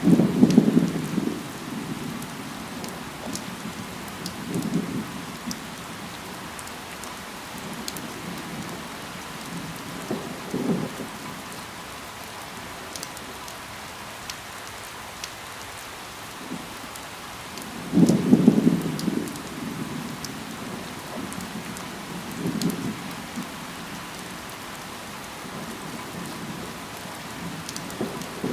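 Steady rain falling, with scattered sharp drips ticking through it. Short low rumbles rise out of the rain every few seconds, the loudest at the very start and about eighteen seconds in.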